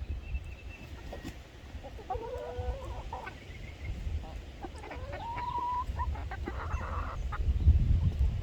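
Chickens clucking and calling, with a longer drawn-out call about five seconds in. Near the end there is a louder burst of rustling noise, over a steady low rumble.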